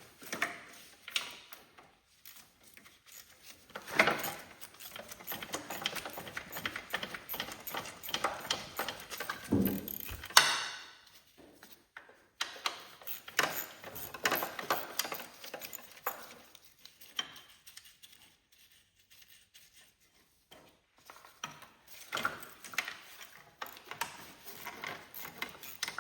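Hand-tool work on a garden tractor: irregular metallic clicks, clinks and knocks of wrenches and parts being handled, with a short rapid run of clicks like a ratchet about ten seconds in.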